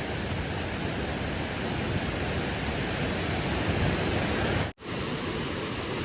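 Steady rush of flowing stream water, cut off abruptly for a split second about three-quarters of the way through before resuming.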